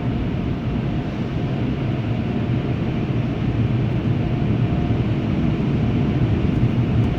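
Automatic tunnel car wash heard from inside the car's cabin: a steady rushing noise with a low rumble under it and a faint steady tone.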